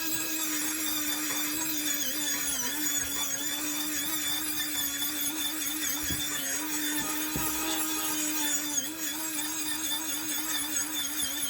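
A power tool's motor running steadily, its pitch wavering and dipping slightly as the tool bears on the work, with a couple of brief sharper sounds in the middle.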